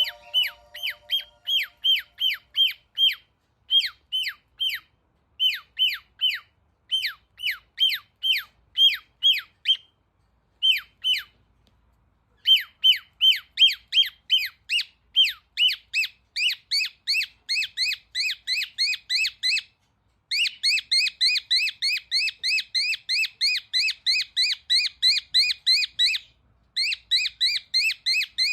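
Cockatiel calling: a long run of short, shrill, repeated chirps, about three to four a second, in bursts separated by brief pauses, the longest about ten seconds in.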